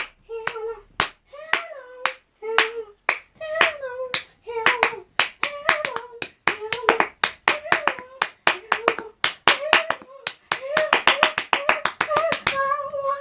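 A voice chanting a short sing-song phrase over and over, with hand claps on the beat. Near the end the claps speed up into a rapid flurry.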